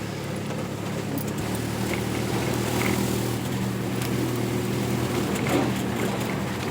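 Vehicle engine running steadily while driving, over a constant hiss of road noise. The engine note shifts slightly about a second and a half in, and there are a few faint clicks.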